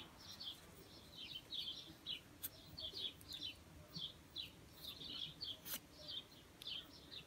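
A small bird chirping over and over in short, high notes, faint, with two soft clicks.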